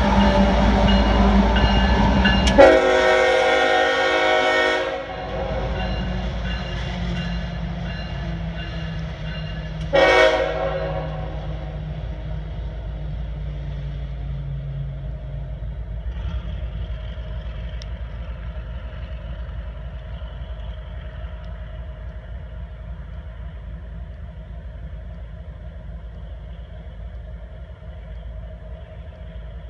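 CSX diesel locomotive passing close with a heavy engine rumble, then sounding its air horn: one long blast about two and a half seconds in and a shorter one around ten seconds. Afterwards the engine fades steadily as it moves away.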